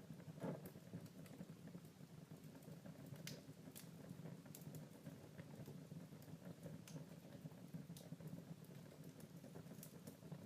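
Wood fire burning in a fireplace, faint, with a low steady rumble and scattered sharp crackles and pops; the strongest pop comes about half a second in.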